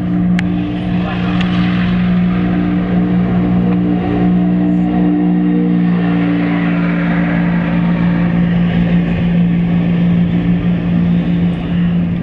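A car being driven, heard from inside: a steady engine and road drone with a constant low hum that holds level throughout.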